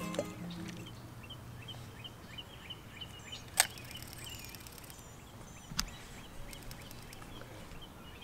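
Songbirds chirping over quiet open-air ambience, with a run of short repeated high notes. A single sharp click about three and a half seconds in, and a softer knock near six seconds.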